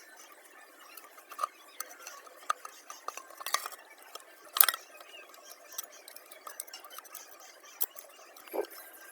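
Scattered light metallic clinks and taps of hand tools and small metal parts being handled, with one sharper clink about halfway through.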